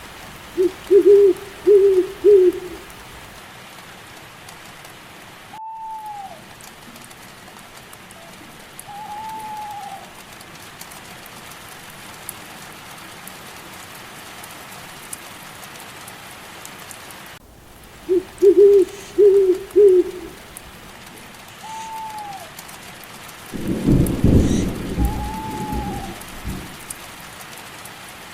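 Steady rain with owl hoots: a run of four short hoots comes twice, about 17 seconds apart, and single higher arched calls come in between. A low rumble of thunder comes near the end.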